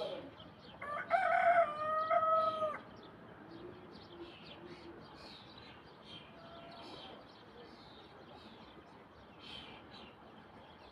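A rooster crows once, a single call of about two seconds, loudest a second or so in. Small birds chirp faintly all the while.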